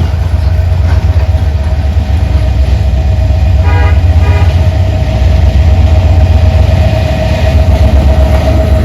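A train running close by with a loud, steady low rumble and a steady ringing tone over it; about four seconds in, two short horn toots sound in quick succession.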